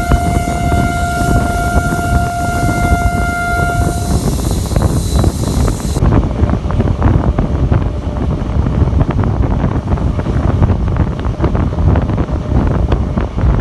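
Train horn sounding one long steady blast for about four seconds, over the rumble and clatter of the moving train, which carries on alone afterwards.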